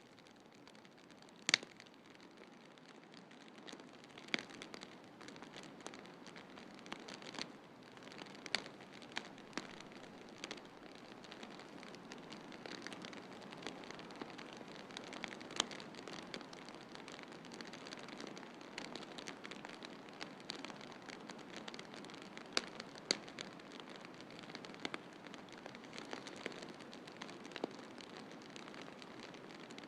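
Wood fire crackling, with irregular sharp pops and snaps, a few much louder than the rest, over a steady soft rushing hiss.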